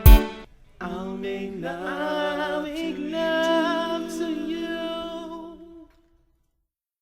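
End of an R&B song: a last drum hit, then an unaccompanied wordless vocal run of held, slightly wavering sung notes that stops about six seconds in.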